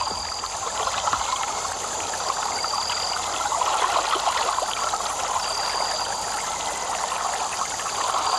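Fast-flowing stream water rushing steadily. A short high-pitched note repeats about every three seconds over it.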